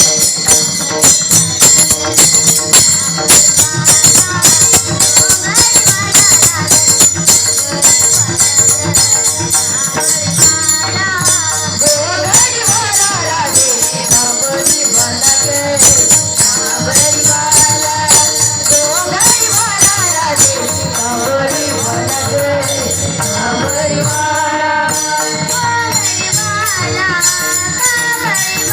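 Marathi devotional gaulan music: jingling hand percussion keeps a fast, steady beat under a gliding melody line. The beat softens over the last several seconds.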